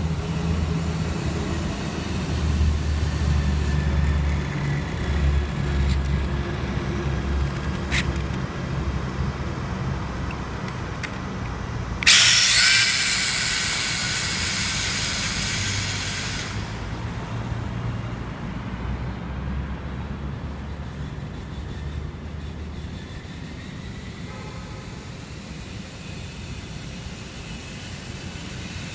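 Electric RC drag car, a front-wheel-drive Tamiya M-05, making a pull: about twelve seconds in, a sudden loud rush of motor whine and tyre noise starts and lasts about four seconds before cutting off. A steady low rumble runs underneath.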